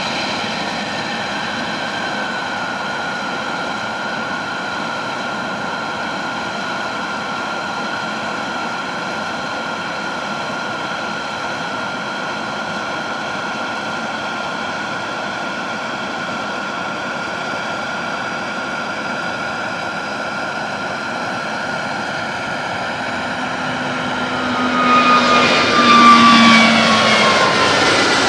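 Airbus A320neo's CFM LEAP-1A turbofan engines at takeoff thrust: a steady jet rush with several high whining tones. About 25 seconds in it grows louder and the tones fall in pitch as the aircraft passes by.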